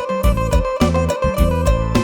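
Isan instrumental music led by a phin, the plucked Lao-Isan lute, over a steady drone, with bass and a regular drum beat.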